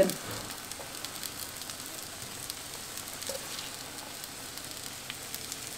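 Potato-and-egg mixture frying gently in a pan on a gas hob: a faint, steady sizzle with a few light crackles.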